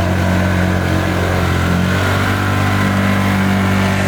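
Side-by-side UTV engine running steadily under load, its pitch shifting slightly as it works through deep mud and water.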